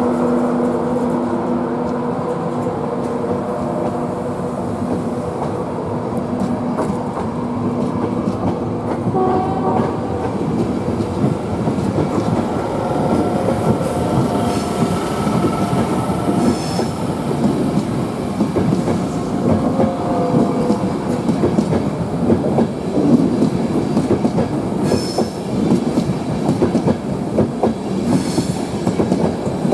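A train moving through a station. A steady droning hum fades over the first several seconds, then the wheels clatter over the rail joints in a dense, uneven rhythm that grows louder toward the end.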